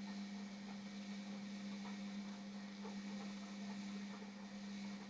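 Indesit washing machine running a wash cycle: a steady hum with a few faint soft knocks.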